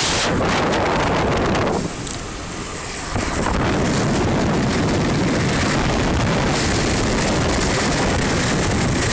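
Car driving on a wet, flooded road: a steady rush of tyre and water noise heard from inside the car, which drops briefly about two seconds in.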